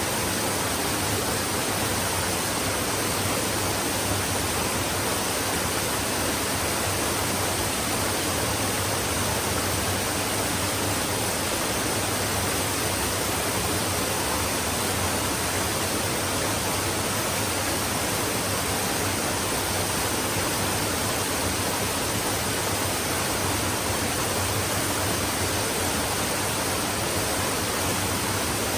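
Stream water flowing in a steady, even rush that does not change.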